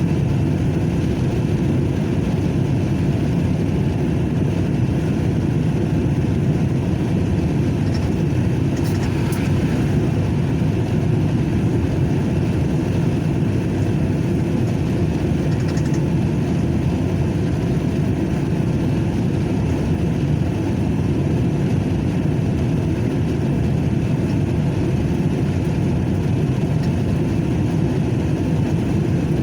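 Steady low drone of a truck's engine, unchanging throughout.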